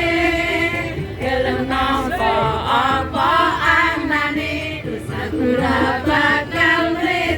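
A song with sung vocals over music: a Javanese-language pop song.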